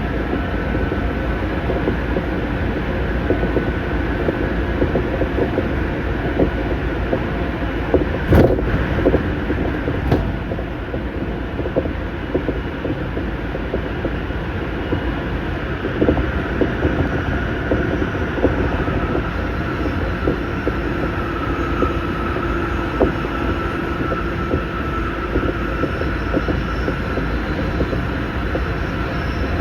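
Tsukuba Express electric train running at speed, heard from on board: a steady rolling rumble of wheels on rail, with two sharp clacks about eight and ten seconds in and a faint whine in the second half.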